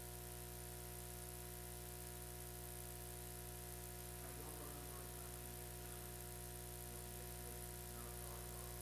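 Steady electrical hum and buzz on the recording, with faint music coming in about halfway through.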